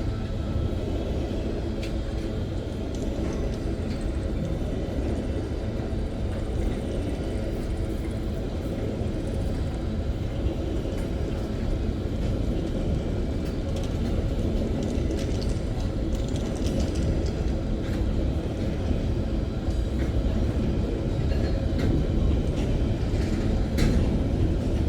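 Freight train rolling past: a steady rumble of wagons on the rails with scattered clicks and clanks, getting a little louder toward the end.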